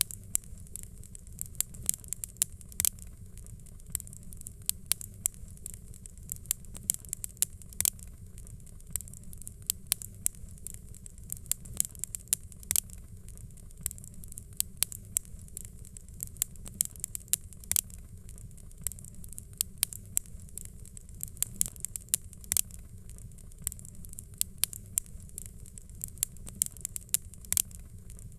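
Wood fire crackling in a fireplace: many sharp, irregular pops and snaps over a steady low rumble of the burning.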